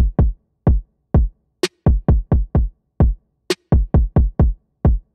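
Drum beat of deep bass-drum hits in an uneven, quickening rhythm, with a sharp bright hit twice among them and clean silence between strokes. It stops just before the end.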